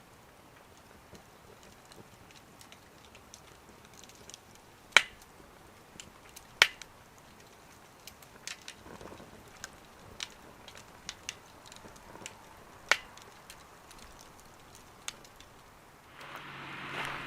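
Wood fire crackling in a small wood stove: sparse sharp pops, three of them loud, among fainter ticks. Near the end a louder steady noise with a low hum comes in.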